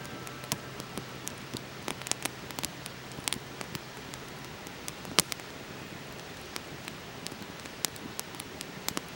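Wood campfire crackling, with irregular sharp pops over a steady hiss; one louder pop about five seconds in.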